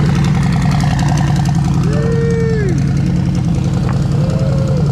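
A car engine idling steadily and loudly close by, with an even, rapid firing pulse.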